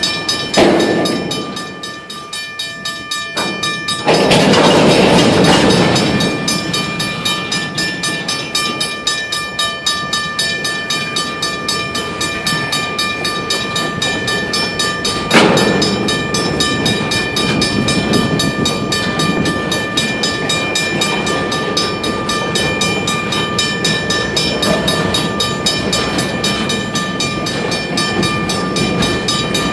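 Freight train rolling past, its wheels clacking over the rail joints about twice a second, with a steady high ringing tone throughout. A louder rush comes about four seconds in, and a sharp bang about halfway through.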